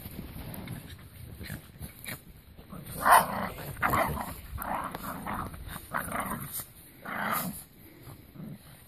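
Border Terrier giving a run of short growls and barks, about six in a few seconds, starting about three seconds in.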